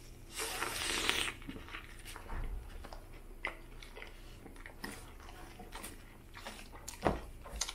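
Close-miked bite into a saucy toasted Subway sub, with a wet slurping suck in the first second, then quiet chewing with soft, scattered wet mouth clicks.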